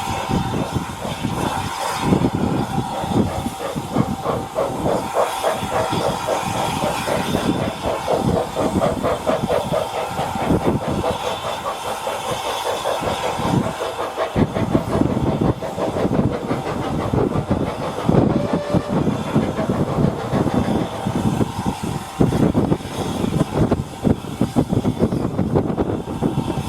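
Steam locomotive on the move with steam hissing, and a run of rapid regular beats through the middle.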